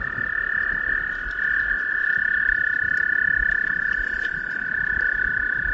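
Toads trilling in a breeding chorus: long, steady, high-pitched trills from more than one calling male, overlapping without a break. These are mating calls.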